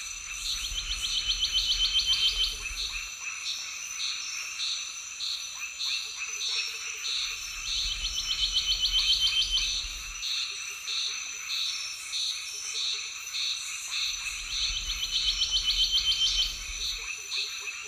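Forest wildlife chorus: steady high insect buzzing, with a loud call of fast repeated pulses that comes back about every seven seconds and softer single notes about once a second in between.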